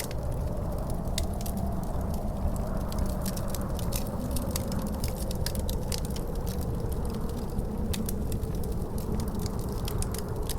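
Wood fire in a fireplace crackling, with frequent small sharp pops at irregular intervals, over a steady low wind noise.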